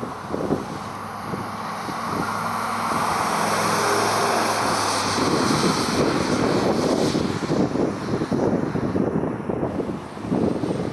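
A vehicle driving past: engine hum and a rushing tyre and road noise that swells to a peak around the middle and then fades. Wind buffets the microphone, mostly in the second half.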